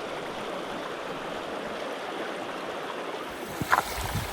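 Back-country river flowing steadily, a constant rush of water. A short knock sounds near the end, the loudest moment.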